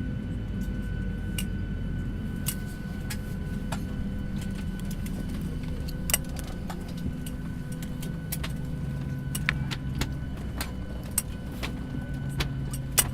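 Airliner cabin at the gate: a steady low hum of the aircraft with faint steady tones, and a dozen or so sharp clicks and knocks scattered through it.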